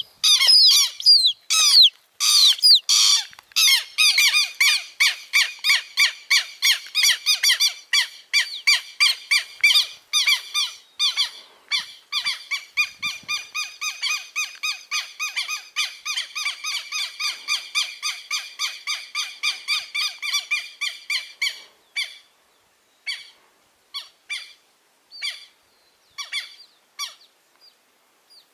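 Southern lapwing chicks calling: a fast series of short, high peeps at about four a second, with louder calls in the first few seconds. After about 21 seconds the calls thin out to scattered single peeps.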